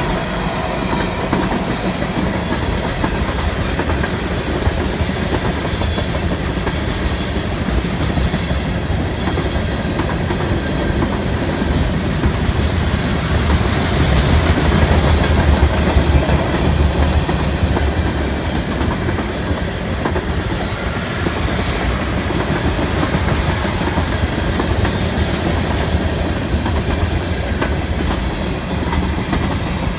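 Long mixed freight train rolling past at speed: a steady rumble of steel wheels on the rails from a string of boxcars, refrigerated cars, covered hoppers and tank cars. It swells a little about halfway through.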